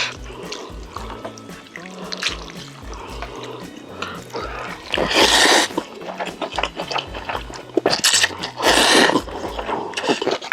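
Close-miked wet eating sounds of chicken being chewed and slurped, with two louder bursts about five seconds in and again around eight to nine seconds in. Background music with a stepping bass line plays underneath.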